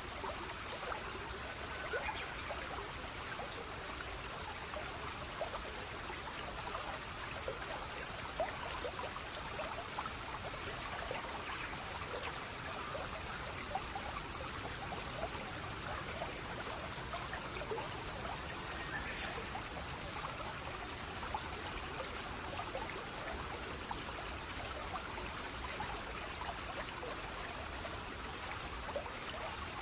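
Water of a small stream trickling and splashing steadily, a continuous rush with many small splashes.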